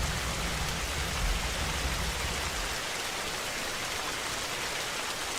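Steady rain falling, with a low rumble underneath that stops about halfway through.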